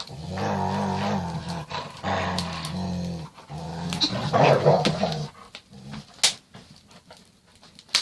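Rottweiler growling in long, low rumbles, typical of play-growling over a toy, in three stretches over the first five seconds. It then quiets, with a sharp click about six seconds in.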